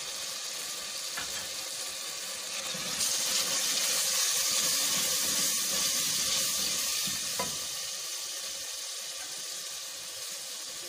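Onion, tomato and spice masala frying in oil in a pressure cooker: a steady sizzle that grows louder about three seconds in and eases off a few seconds later, with a light knock or two from the wooden spatula stirring it.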